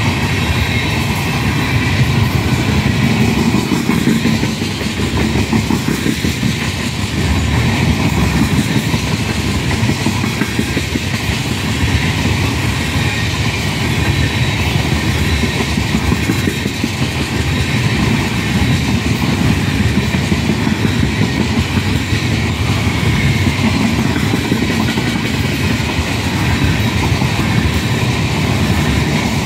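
Freight train of tank cars rolling past at close range: a steady loud rumble of steel wheels on the rails with continuous clickety-clack.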